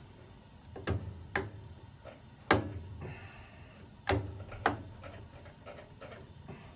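A series of sharp clicks and knocks at uneven intervals, five or six in all, the loudest about two and a half seconds in.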